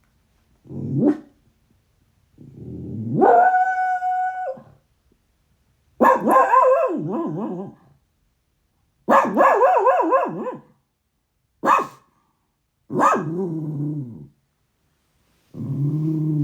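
Dog growling and howling in a string of separate calls: a short rising growl, then a rising cry held steady as a howl, several wavering yowls, and a low growl near the end. It is one of the recurring bouts of grrs and howls that come in waves about every minute, for which the owner knows no cause.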